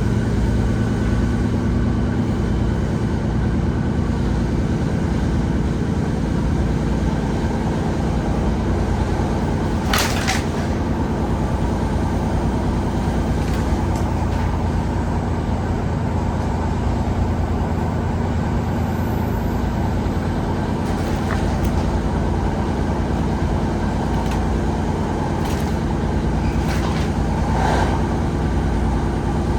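Class 150 Sprinter diesel multiple unit running along the line, its underfloor diesel engine holding a steady note over a low rumble. A few sharp clicks break in around a third of the way through and near the end.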